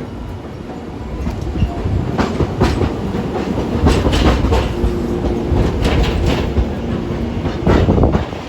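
Hiroshima Electric Railway streetcar rolling through the station tracks, its wheels clattering over rail joints and points in a run of sharp clacks over a low rumble, loudest about four seconds in and again near the end.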